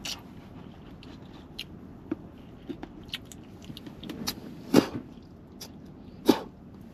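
Scattered light clicks and knocks over a steady low hiss, with two louder thumps, one a little past the middle and one near the end.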